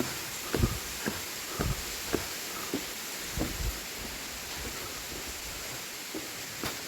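Footsteps on a waterfall trail, low thuds about twice a second at first and then fewer, over the steady rush of falling water.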